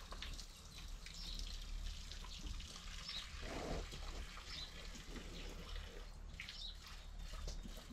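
Faint, scattered short bird chirps, spaced a second or more apart, over a low steady hum, with one brief low sound about three and a half seconds in.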